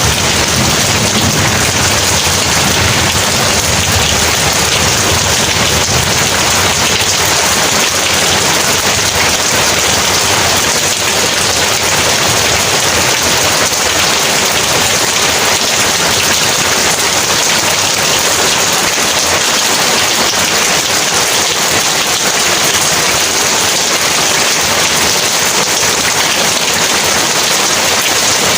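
Heavy rain falling steadily: a dense, even hiss of drops pattering on surfaces. There is a low rumble of thunder in the first couple of seconds.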